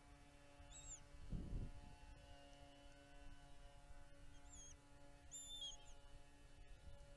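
Faint, short, high-pitched bird chirps, one about a second in and a quick pair about five seconds in, over a steady low hum. A brief low rumble comes about a second and a half in.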